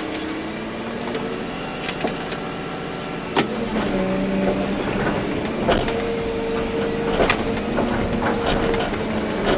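Volvo EC240B excavator's diesel engine and hydraulics running under working load, the pitch stepping up and down a few times as the controls are worked, with a few sharp knocks.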